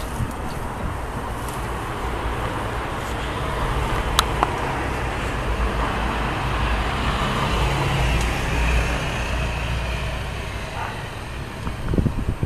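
Steady road traffic noise with a low rumble, swelling as a vehicle passes about two-thirds of the way through. There is a single sharp click about four seconds in.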